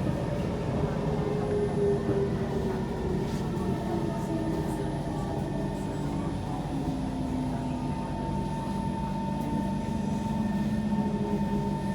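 Kawasaki C151 metro train running between stations, heard from inside the car: a steady rumble with several drawn-out motor tones that drift slowly in pitch.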